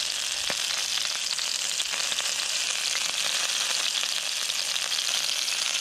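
Pitta bread and minced-meat kebabs frying on a hot cast-iron griddle pan: a steady sizzle with many small crackles and pops.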